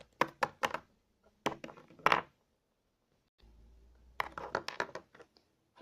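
Small hard plastic toy pieces being handled and set down: short clicks and clatter in three clusters, near the start, around two seconds in and at about four to five seconds.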